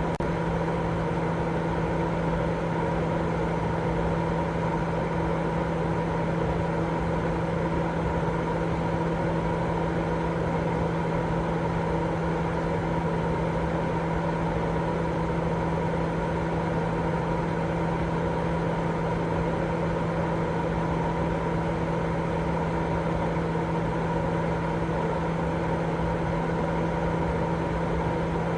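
Continuous white-noise sleep sound: a steady, unchanging rush carrying a low, constant hum.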